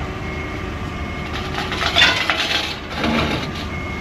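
Vehicle engine running with a reversing beeper sounding briefly at first, then a loud crunching creak about two seconds in and a lower scraping groan a second later as the Ranger 374 boat's weight shifts off the trailer onto the ramps.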